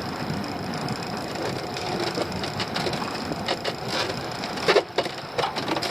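A lobster pot knocking and clattering against the boat as it is hauled aboard, several sharp knocks about three and a half to five and a half seconds in, the loudest near the end. Underneath is the steady running noise of the boat.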